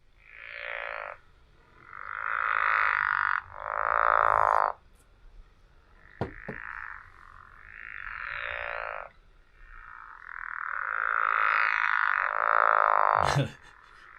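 A frog call played from a recording: a series of drawn-out, buzzy croaks, about seven of them, each lasting around a second with short pauses between. The call almost sounds like someone snoring. There is a brief click about six seconds in.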